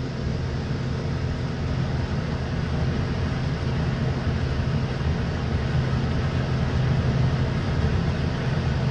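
An engine running steadily, a constant low hum under a broad rushing noise such as wind or water.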